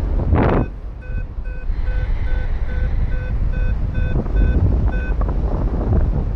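Paragliding variometer beeping at one steady pitch, about two to three short beeps a second, the sound it makes while the wing is climbing in lift. Wind rushes over the microphone the whole time, with a loud gust about half a second in.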